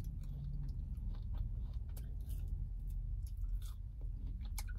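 Close-miked mouth sounds of a person chewing McDonald's french fries: scattered small clicks and smacks over a steady low hum.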